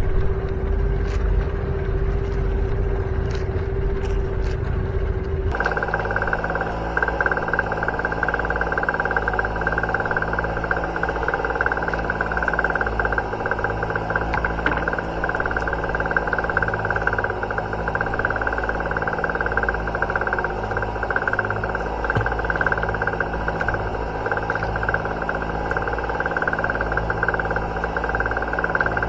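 Fishing boat's engine running steadily while trolling. About five seconds in, the engine's tone changes abruptly to a higher-pitched, busier drone.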